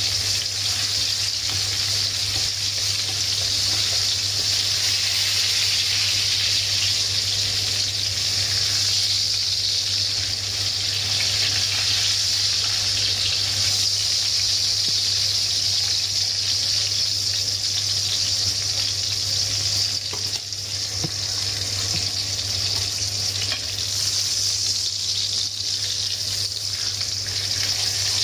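Breaded pork chops deep-frying in hot oil in a pan: a steady, loud sizzle.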